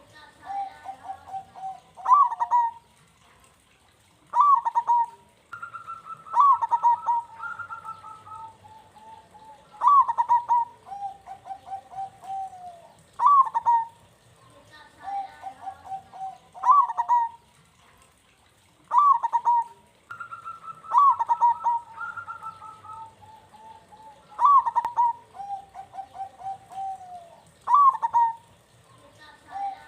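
Zebra doves (perkutut) cooing: a quick run of short coos with a sharp rising note, repeated about every three seconds. Twice a second bird's higher phrase overlaps it.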